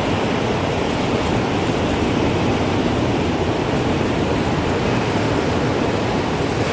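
Wind blowing steadily as a dense, even rushing noise, with no distinct chime strikes standing out.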